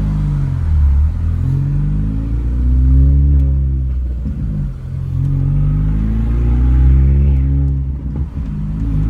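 Straight-piped R53 Mini Cooper S's supercharged 1.6-litre four-cylinder accelerating hard, loud with the muffler cut off. The exhaust note climbs in pitch, falls back at a gear change about four and a half seconds in, then climbs again before another change near the end.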